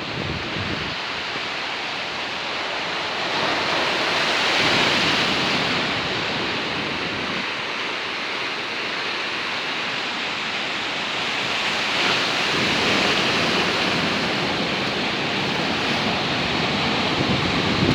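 Storm surf: rough sea waves breaking and washing in a continuous hiss, swelling louder about four seconds in and again around twelve seconds, with strong wind.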